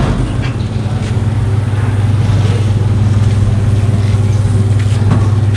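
Motorcycle engine running steadily through an SC Project exhaust with a modified elbow, a loud low drone held at one pitch, neither revving up nor down.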